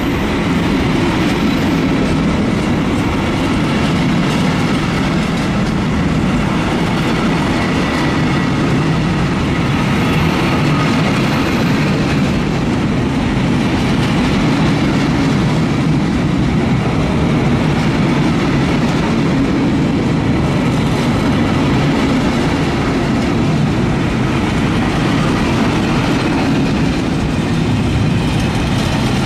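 Freight train wagons rolling past, a steady loud rumble of wheels on the rails.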